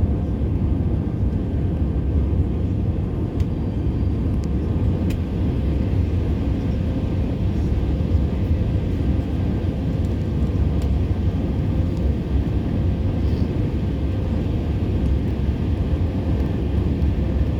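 Steady roar of jet engines and rushing air inside an airliner's cabin during the climb after take-off, heaviest in the low end, with a faint steady hum.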